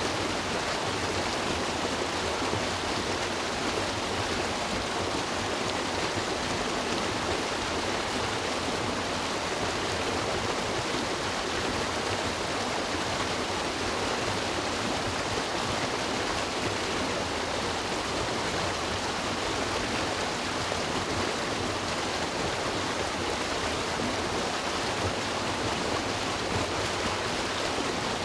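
River water rushing and babbling over rocks, a steady, even flow with no breaks.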